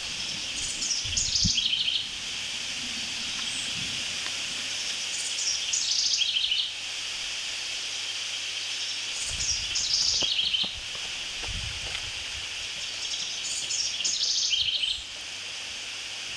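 A songbird sings a short phrase that steps down in pitch four times, about every four seconds, over a steady high hiss. A few dull thumps sound underneath.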